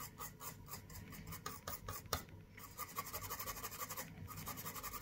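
Light, quick scratching and scraping of a small hand tool working over an iPhone XR logic board, the strokes coming faster in the second half.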